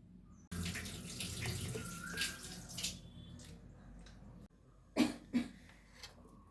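Water running for about two and a half seconds, starting suddenly, then two sharp knocks close together about a second before the end.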